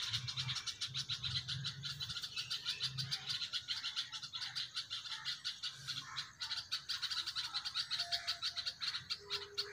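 Small birds chirping in a tree: a continuous, rapid run of short high calls, about ten a second.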